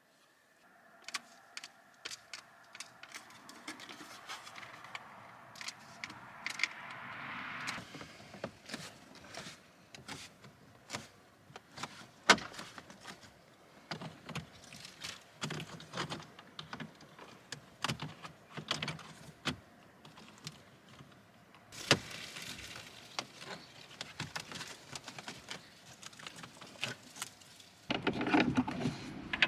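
Irregular clicks and knocks of plastic car interior trim being handled and fitted, with a louder, busier stretch of handling noise near the end.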